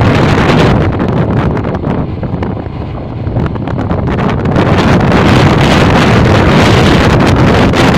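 Heavy wind buffeting the microphone of a moving motorcycle, with road and engine noise mixed in. It eases slightly a couple of seconds in, then builds again.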